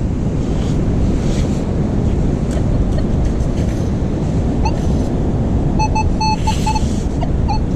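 Steady wind buffeting the microphone over surf noise. Through it come short, high electronic beeps from a Minelab Manticore metal detector: one blip near the middle, then a choppy string of beeps about six seconds in as it sounds off on a target.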